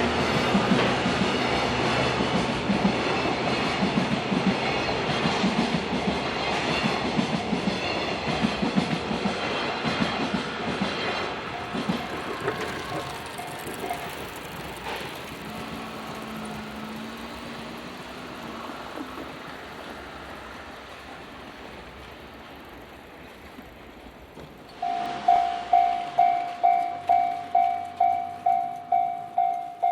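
An electric train passes over a level crossing, its wheels clattering over the rail joints, and fades away over about twenty seconds. About 25 seconds in, the crossing's warning bell starts ringing, a loud clang repeated about twice a second.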